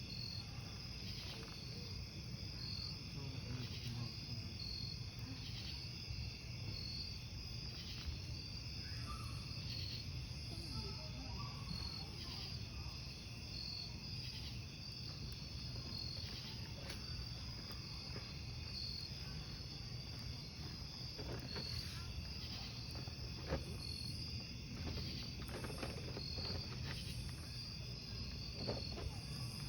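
Crickets chirping in a steady, regular rhythm over a wood campfire, whose burning logs give scattered crackles and pops.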